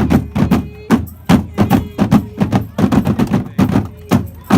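Fireworks going off in a rapid barrage of sharp bangs, about four a second, like a multi-shot firework cake.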